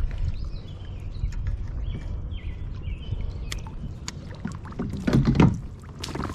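Water sloshing and splashing around a kayak hull while a hooked bass is reeled in, with small knocks and clicks and a louder splashy burst about five seconds in.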